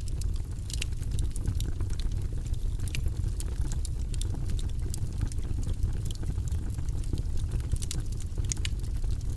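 Wood fire burning in a fireplace: a steady low roar of the flames with frequent sharp crackles and pops from the burning logs.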